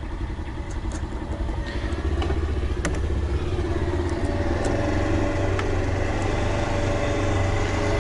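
A motor vehicle engine idling, a steady low hum that grows louder about two seconds in, with a few light clicks of small nuts being threaded on by hand.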